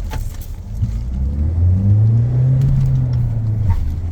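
Mahindra XUV700 engine accelerating hard, its pitch climbing steadily over the first couple of seconds and then holding, with a brief dip near the end before it rises again.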